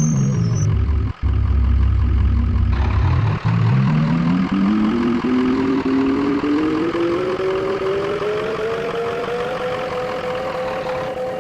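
Tram's electric traction drive whining, its pitch falling at the start, staying low for a few seconds, then rising steadily and levelling off near the end.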